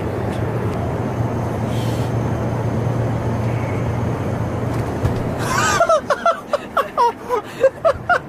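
Steady private-jet cabin noise, a low drone and hum, for about six seconds. Then it stops abruptly and a quick run of short, loud, high-pitched cries follows.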